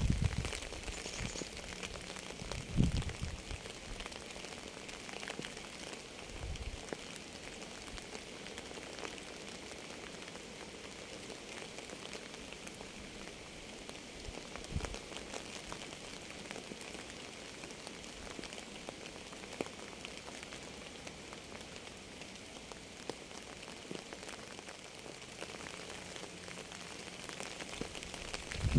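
Steady rain falling, with many separate drops ticking through a continuous hiss. A few short, dull low thumps stand out: about three seconds in, around six and a half seconds, and about halfway.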